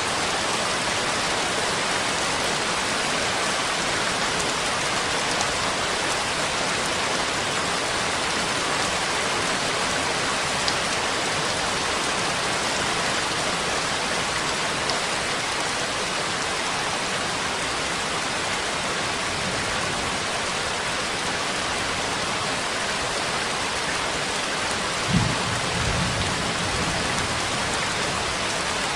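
Steady rain falling, with a brief low rumble about three-quarters of the way in.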